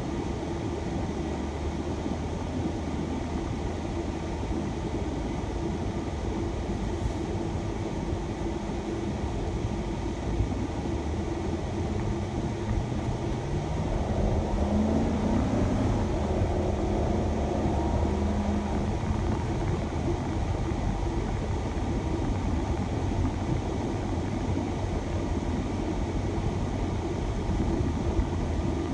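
Shuttle van driving: steady engine and road noise, with the engine note rising and the sound growing a little louder about halfway through as the van accelerates.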